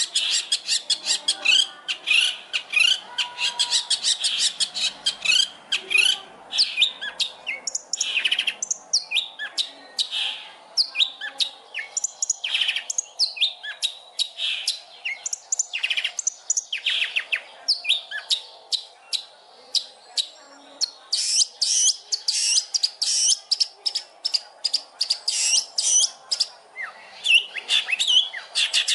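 Long-tailed shrike (cendet) singing a rapid, varied song of chirps, trills and buzzy notes, full of phrases mimicked from other birds. It is a 'pancingan' recording, meant to set other cendet singing.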